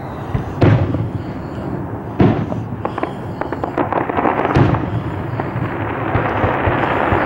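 Distant aerial fireworks show: three deep booms of shells bursting, under a second in, about two seconds in and about halfway through, with many small cracks between and dense crackling that builds through the second half.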